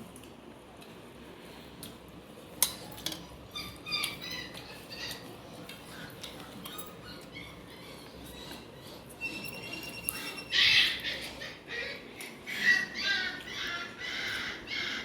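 High-pitched animal calls, chirping and squawking, faint at first and coming thick and loud from about ten seconds in; a single sharp click near three seconds.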